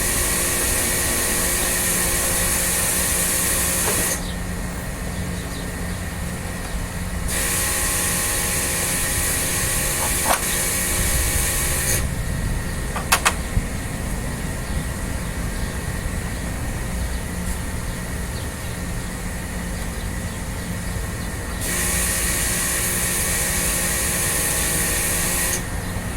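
Pressure washer spraying in three bursts of several seconds each, a loud hiss with a steady motor whine under it, over a continuous low hum. A few sharp clicks fall between the bursts.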